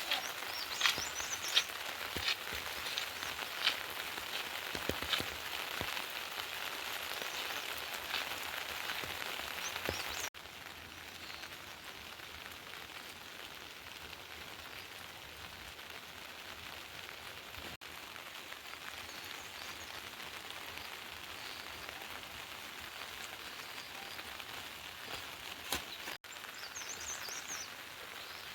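Steady rain falling, with sharp drips and patters standing out in the first ten seconds; about ten seconds in the sound drops to a quieter, even hiss of rain.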